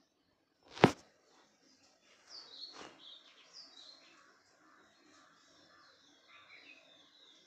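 A single sharp knock just under a second in, then small birds chirping over and over in quick, short, falling notes.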